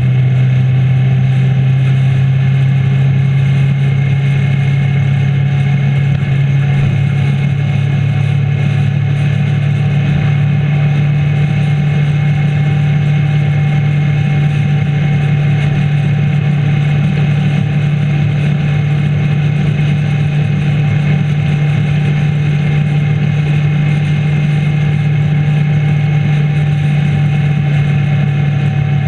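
Motorcycle engine droning steadily at cruising speed, with wind and road noise, heard from a camera mounted on the bike.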